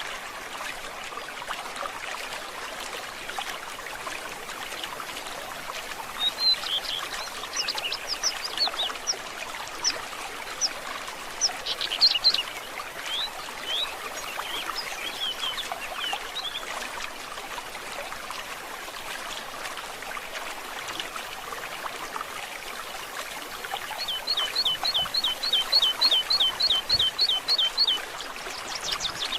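A forest stream trickling and gurgling steadily, with songbirds calling over it. Scattered high chirps come in the first half, and near the end a bird gives a fast run of about a dozen repeated, downward-sliding notes, roughly three a second.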